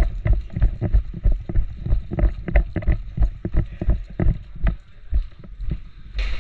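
Footsteps of a person jogging, about three heavy steps a second, with the gear on the body jostling. The steps slow and fade after about four and a half seconds, and a short sharp burst of noise comes right at the end.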